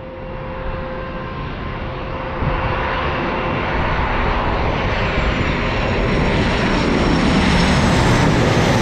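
Jet airliner engines growing steadily louder as the aircraft closes in, with a thin high whine joining in during the second half.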